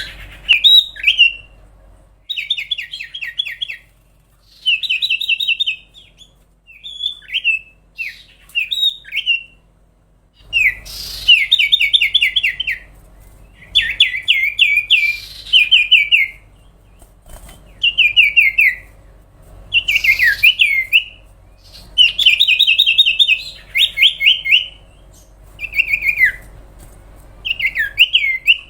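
Common iora (cipoh/sirtu) singing a string of phrases, each a fast run of repeated, downward-sweeping whistled notes lasting a second or two, with short pauses between.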